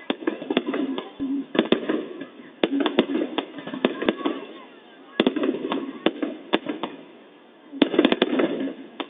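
Fireworks going off in bursts of sharp bangs and crackles, with a short lull about seven seconds in, over the voices of people talking.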